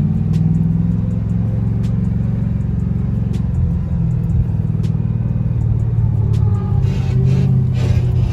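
Swapped-in Ford 5.4 L three-valve V8 running with a low, steady rumble, its revs sagging a little in the first second. The throttle is not set right, so the engine idles high and tends to stall.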